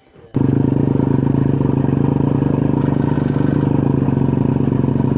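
Motorcycle engine running steadily at a constant pitch, cutting in abruptly just after the start.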